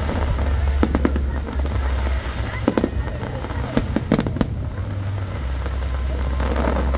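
Aerial fireworks bursting: a pair of sharp bangs about a second in, another near three seconds, and a quick cluster of bangs around four seconds, over a steady low rumble.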